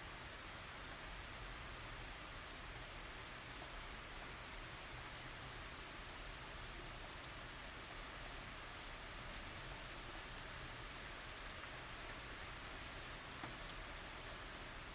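Steady tropical rain falling, with many small drops pattering on surfaces.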